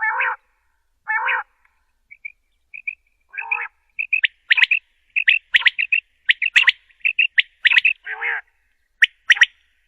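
Common quail calling: a few harsh, nasal notes about once a second, then, about two seconds in, a fast run of sharp, high chirps in quick pairs and triplets.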